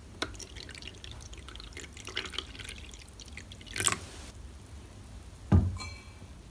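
Household water sounds: scattered drips and small taps, a short swish, then a loud thud about two-thirds of the way in, followed by a brief metallic ring.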